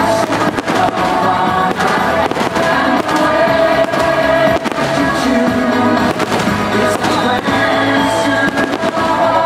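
Fireworks finale barrage: many shells going off together in rapid, overlapping bursts over music with held tones.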